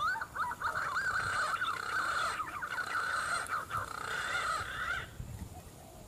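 A bird's long whistled call, warbling rapidly up and down in pitch, that stops about five seconds in.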